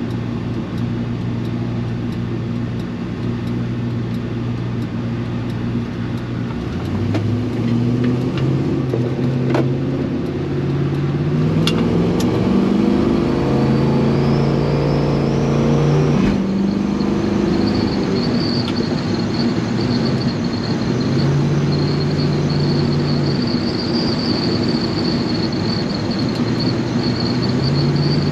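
Chevy C-10 pickup's engine pulling the truck along the road, heard from inside the cab: its pitch climbs steadily as it accelerates, drops suddenly about sixteen seconds in, then holds steady at cruise. From about halfway a thin high whistle comes in and stays.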